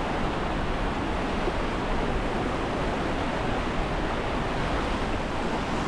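Large waterfall rushing: a steady, unbroken noise of falling water.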